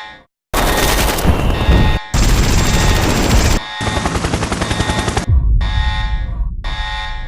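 Rapid automatic gunfire in several bursts cut together, with rapid cracks coming close together. It begins just after a short electronic beep tone ends.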